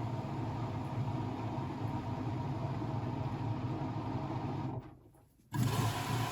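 Blomberg WAF 7442 SL washing machine running with a steady motor hum; near the end the sound dies away for about half a second, then comes back suddenly.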